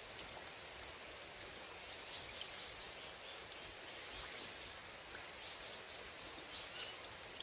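Small birds chirping in quick, short, high calls over a faint steady hiss of natural ambience.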